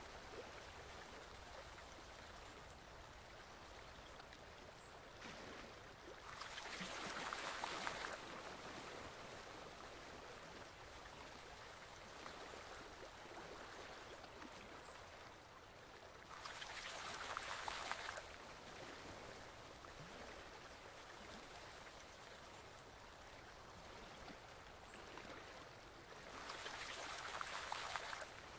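Stream water flowing steadily, with a louder rush of water that swells for about two seconds three times, about ten seconds apart, each ending abruptly.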